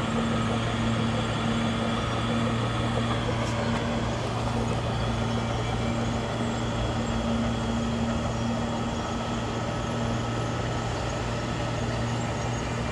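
Heavy diesel engine of earthmoving equipment running steadily at a constant pitch, a low even drone with no revving.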